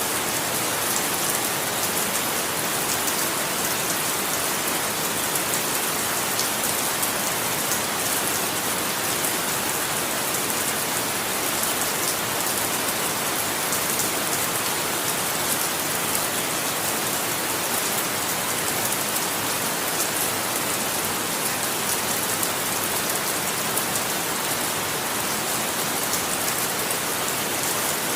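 Steady rain falling, an even hiss of countless drops pattering on a surface, with no thunder.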